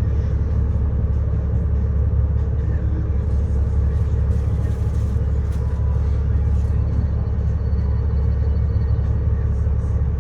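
A city bus riding along, heard from inside the cabin: a steady low engine and road rumble with a constant hum.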